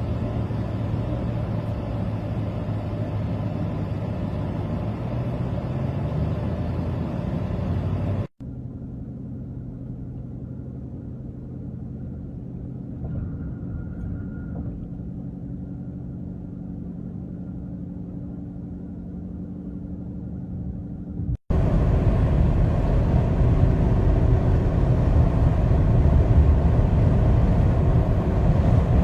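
Highway traffic: cars and trucks running steadily with a low engine hum and rumble. It comes as three separate stretches, cut off abruptly about 8 seconds in and again about 21 seconds in. The middle stretch is quieter, and the last is the loudest and most rumbling.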